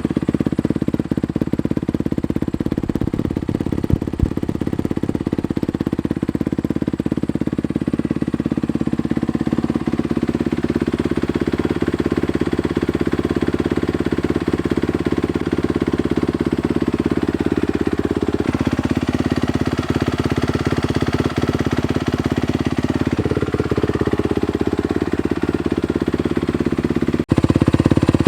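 A 2017 Honda CRF250R's single-cylinder four-stroke engine, fitted with a full titanium Yoshimura exhaust system, running steadily at a near-constant speed. Its pitch shifts slightly about two-thirds of the way through.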